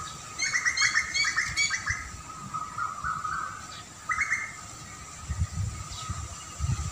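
Songbird chirping: a quick run of repeated chirps for over a second, then a shorter burst a few seconds later. A faint steady high tone sits underneath, and low rumbles come in near the end.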